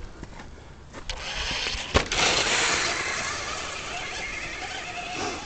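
Radio-controlled truck driving on a dirt track: a sharp knock about two seconds in, then a steady whir of electric motor and tyres on dirt.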